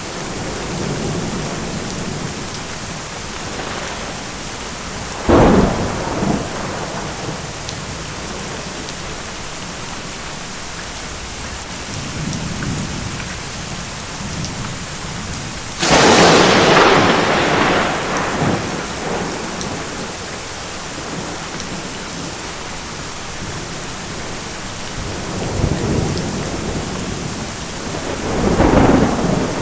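Steady heavy rain with thunder: a sharp crack about five seconds in, a loud long crash of close thunder just past halfway that rolls off over a few seconds, and another clap near the end, with softer rumbles between.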